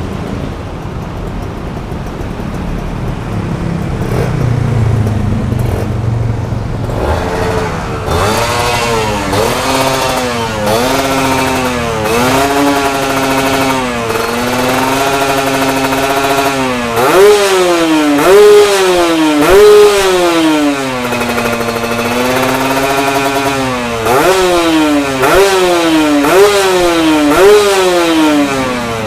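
Two-stroke motorcycle engine breathing through a Corse Project racing exhaust with an AHU expansion chamber: low idle at first, then from about seven seconds in revved in repeated throttle blips, the pitch rising and falling roughly once a second, with a few brief holds at steady revs.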